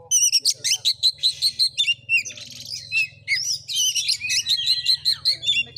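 Oriental magpie-robin (kacer) in full song: a fast, unbroken run of varied whistled notes, sliding up and down, mixed with harsh rasping strokes.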